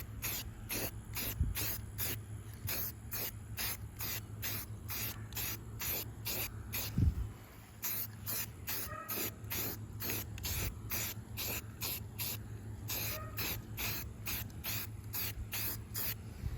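Aerosol can of filler primer spraying in short, quick bursts, about three a second, laying light coats on car window trim. A single low thump about seven seconds in, when the spraying briefly pauses.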